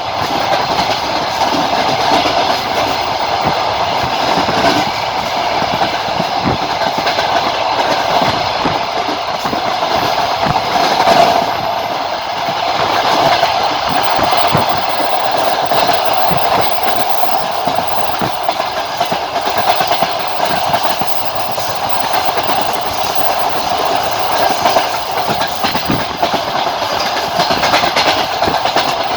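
A moving passenger train heard from a carriage window: steady running noise, with the wheels knocking over rail joints every so often.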